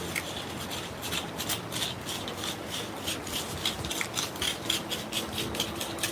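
A digging tool scraping and chopping through soil and small roots in a target hole, in quick repeated strokes, about three to four a second.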